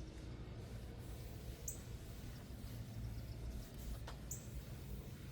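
A small bird chirping twice, short high chirps about a second and a half and four seconds in, over a steady low hum.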